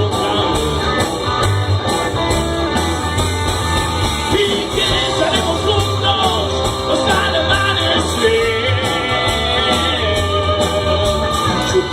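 Live rock band playing: a sung vocal line over guitar and bass with a steady drum beat.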